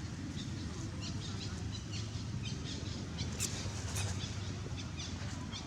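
Many short, high chirping calls in quick runs over a steady low hum.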